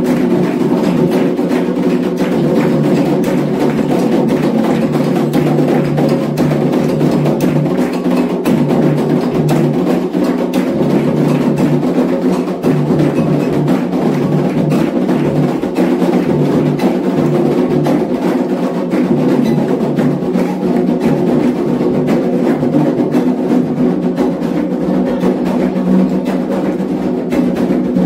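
Candomblé atabaque hand drums playing a dense, steady rhythm for Xangô.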